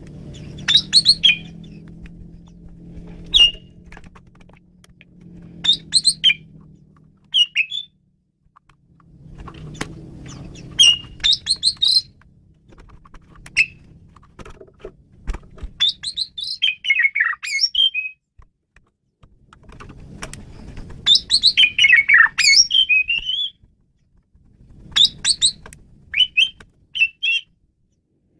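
Asian pied starling (jalak suren) singing: short bursts of varied gliding whistles and chattering notes every few seconds, with brief pauses between phrases.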